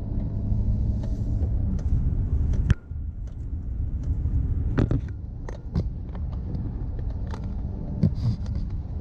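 Car engine and road noise heard from inside the moving vehicle, a steady low rumble, with scattered clicks and rattles and one sharp knock about three seconds in.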